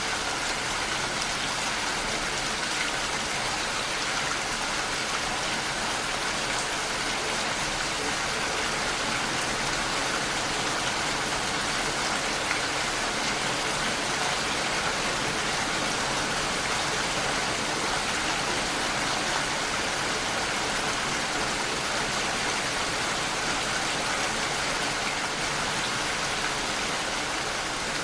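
Steady rain falling and pattering against a window pane, an even hiss without distinct drops standing out.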